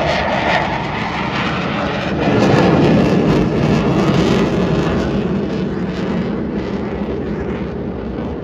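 Aircraft flying past overhead, its engine noise swelling about two seconds in, then slowly fading.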